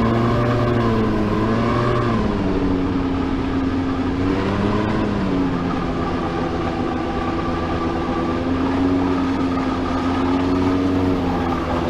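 Honda Lead 100 scooter's two-stroke engine running. The revs lift and drop briefly twice in the first five seconds, then hold steady. The owner suspects a crank-bearing noise.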